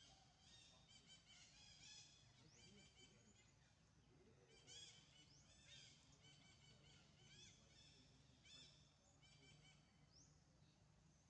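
Faint, busy chirping of birds: many short repeated notes and quick rising whistles, over a low steady background hum.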